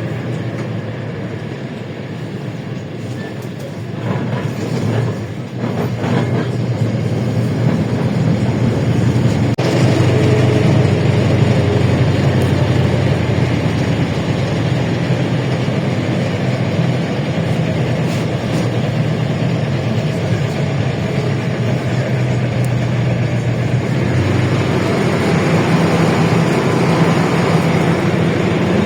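A LiAZ-677M city bus under way, heard from inside: its V8 engine drones over road noise. The engine note rises and changes pitch about ten seconds in and shifts again a few seconds before the end.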